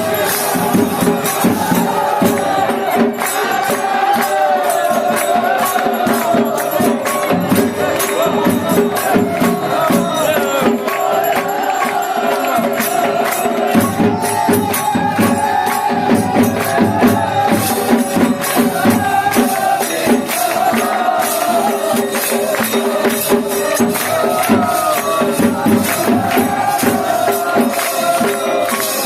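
Devotional aarti music: a voice singing a wavering melodic chant over a steady held tone and fast, continuous percussion strikes.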